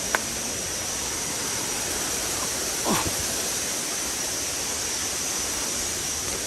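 Steady rushing of a waterfall, a continuous even roar of falling water. There is a sharp click just after it starts and a short falling sound about three seconds in.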